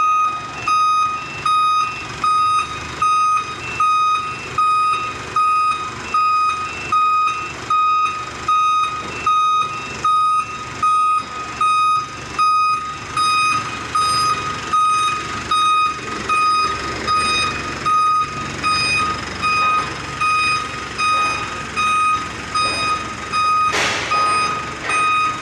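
Fire truck's reversing alarm beeping evenly about once a second with a single high tone, over the low running noise of the truck.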